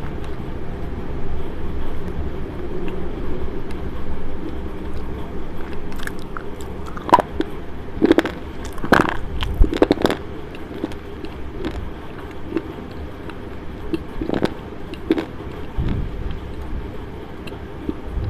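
Slate pencil being chewed right against a clip-on microphone: close mouth sounds with several sharp, crisp crunches, most of them in the middle, over a low rumble.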